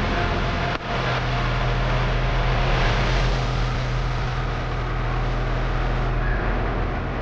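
Tractor engine running steadily with a low, even hum, with a brief dip in loudness just under a second in.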